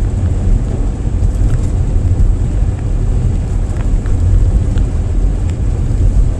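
Steady low rumble of a car being driven, engine and tyre-on-road noise heard from inside the cabin.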